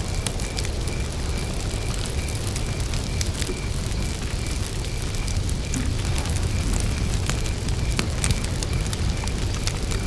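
Wood fire burning, with scattered sharp crackles and pops over a low steady rumble. A cricket chirps in an even rhythm of about three chirps a second.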